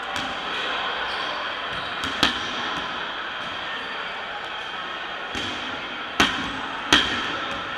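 Dodgeballs smacking hard three times, about two seconds in and twice near the end, over a steady din of players' and spectators' voices.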